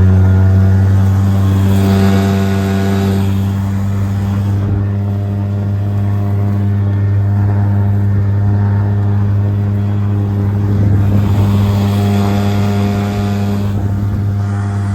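Stels 5 hp outboard motor running at a steady, unchanging pitch, driving a boat with two passengers on the plane. A rushing noise swells over the engine twice.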